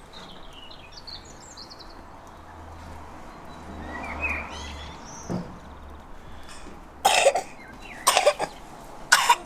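A person coughing three times, about a second apart, in the last few seconds. Birds chirp faintly in the background near the start.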